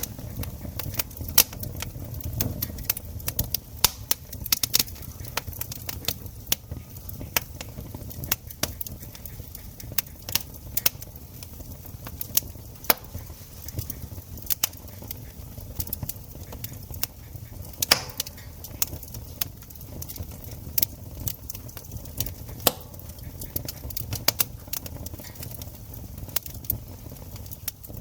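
Campfire of burning wood crackling: an irregular run of sharp snaps and pops, a few of them louder, over a low steady rumble.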